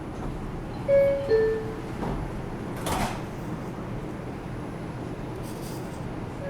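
R142 subway car door-closing chime: two short tones, the second lower, about a second in, followed about three seconds in by a sharp knock as the doors shut, over the steady hum of the stopped train.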